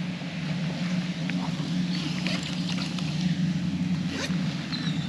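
A steady low mechanical hum, with a few faint clicks and a brief high chirp near the end.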